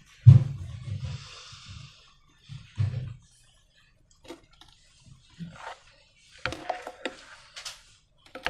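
Hands working slime and rubber balloons: a heavy low thump just after the start with a brief hiss after it, another thump about three seconds in, then scattered small sticky squelches and crackles.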